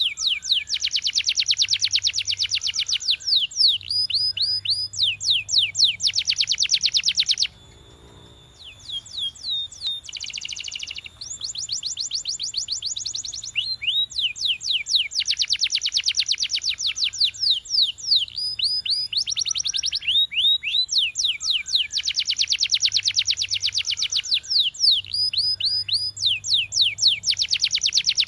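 Canary singing a long song of fast rolling trills and rapid series of repeated down-slurred notes, high-pitched, breaking off briefly about seven seconds in before carrying on.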